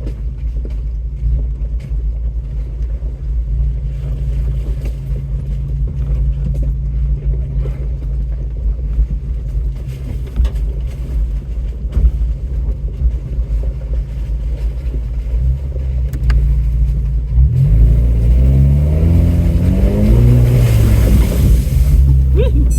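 Off-road truck's engine running low and steady while crawling over a rocky trail, with a few sharp knocks from the rocks and chassis. About 17 seconds in it revs up, its pitch rising and falling several times, with a hiss joining near the end.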